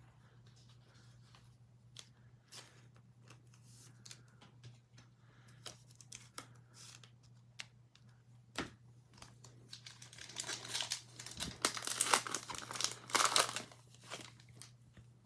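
Foil trading-card pack wrapper being torn open and crinkled, loudest and densest about two-thirds of the way in, after light clicks and taps of cards being handled. A steady low hum runs underneath.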